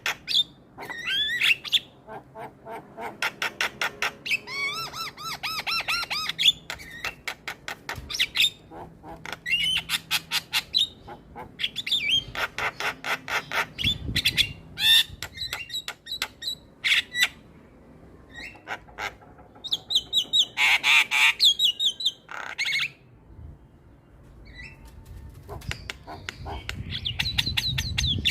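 Javan myna chattering: rapid runs of sharp repeated notes mixed with whistled phrases and harsh squawks, broken by short pauses.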